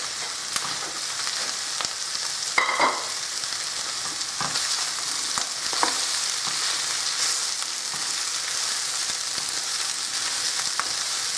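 Stir-fry of vegetables and chicken sizzling steadily in a wok, with a spatula scraping and tapping against the pan as spring onions are stirred in. There is a brief ringing clink about three seconds in.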